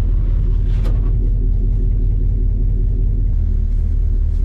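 Car engine idling steadily, a low even rumble, with one short click about a second in.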